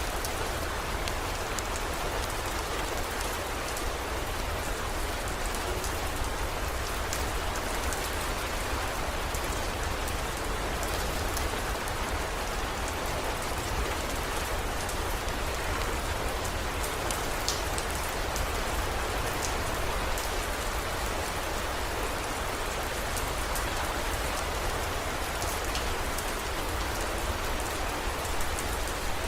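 Steady rain falling, with scattered small drop ticks and a constant low rumble underneath.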